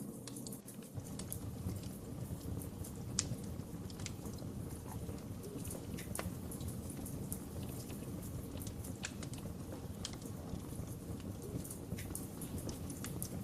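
Wood fire burning: a steady low rumble of flames with scattered sharp crackles and pops of burning wood.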